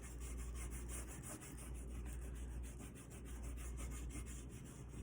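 Oil pastel rubbing across paper in quick, even back-and-forth strokes, about five or six a second, as an area is coloured in.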